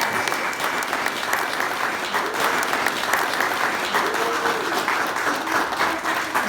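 Audience applauding steadily, with a few voices calling out among the clapping.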